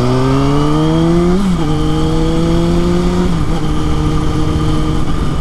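Kawasaki ZX-6R inline-four sport bike accelerating while being ridden: the engine note climbs, drops with an upshift about a second and a half in, climbs again and drops with a second upshift, then holds steady at cruise.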